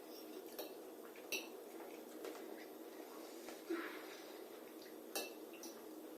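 Faint, scattered clinks of cutlery against plates, about five small knocks spread over a few seconds, over a low room hum.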